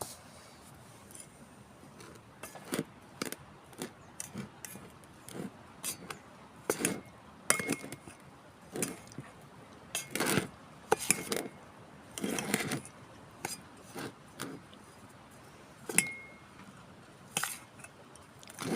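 A metal spoon knocking and scraping against a steel vessel at an irregular pace, some strikes ringing briefly, as flour is mixed with poured jaggery syrup.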